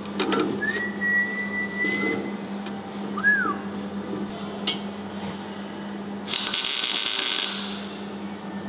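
A person whistling a long steady note and then a short swooping one, over a steady hum, with a few clicks at the start. About six seconds in comes a hiss lasting about a second and a half.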